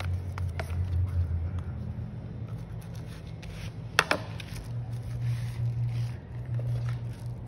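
A boxed product and its packaging being handled, with rubbing and scraping and a few light clicks, and a sharp knock about four seconds in, over a steady low hum.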